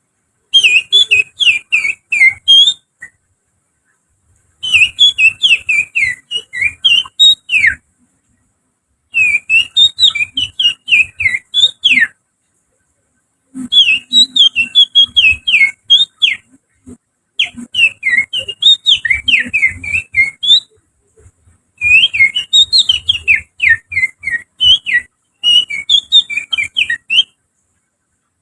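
A person whistling through the fingers in imitation of an Oriental magpie-robin's song, as a lure to make birds sing. It comes in about seven phrases of quick, sliding whistled notes, each about three seconds long, with short pauses between them.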